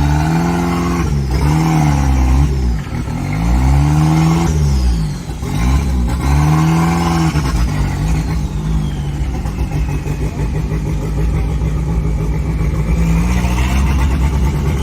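Turbocharged Toyota 3A-C inline-four engine revving up and back down three times, then running at a steady speed, with a faint high whine that rises and falls with the revs.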